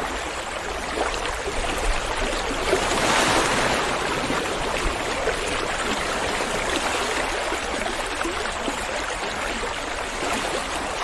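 River water flowing, a steady rushing with a slight swell about three seconds in.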